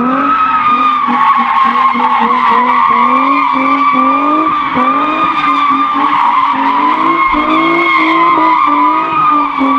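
Car engine held at high revs, its pitch repeatedly dipping and climbing again, while the tyres spin and squeal steadily through a burnout or donut.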